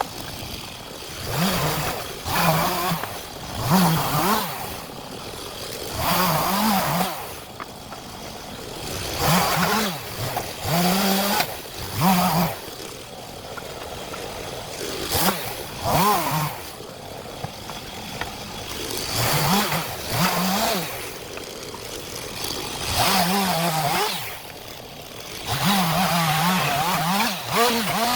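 STIHL MS 251 two-stroke chainsaw revved in repeated short bursts, its pitch rising and falling with the throttle, dropping back to a lower idle between bursts.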